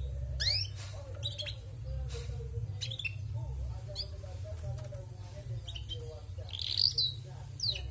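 Female canary chirping: short, sharp calls that drop in pitch, a dozen or so at irregular intervals, with a louder cluster near the end. A steady low hum runs underneath.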